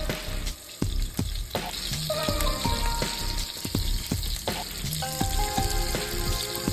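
Food frying and sizzling, a steady hiss that comes in about a second and a half in, under background music with a steady beat.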